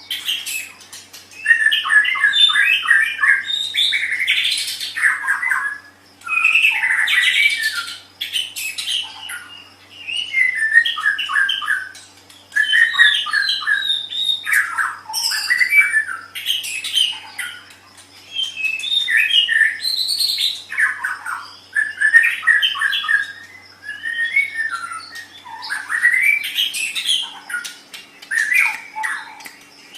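White-rumped shama (murai batu) singing: a run of loud song phrases a few seconds long, each packed with fast repeated notes and gliding whistles, separated by short pauses.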